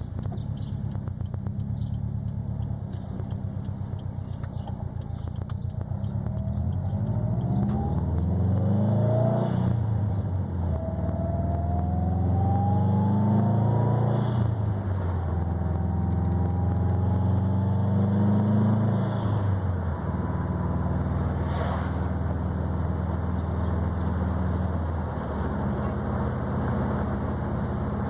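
Exhaust of a 2020 Subaru WRX STI's turbocharged flat-four through an ETS quiet catback with a resonated mid pipe, first at a steady low drone, then accelerating through three gears, the pitch climbing and dropping at each shift, before settling back to a steady cruise.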